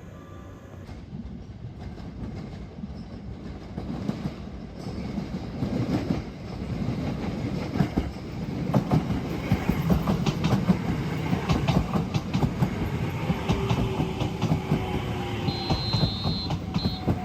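Train wheels clattering over the rails as the sleeper train runs, with a dense rattle of clicks that grows louder over the first several seconds and then holds steady.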